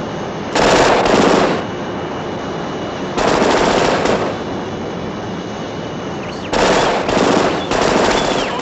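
Cartoon machine-gun fire sound effect: three loud bursts of rapid rattling over a steady hum, the last one longer and broken up.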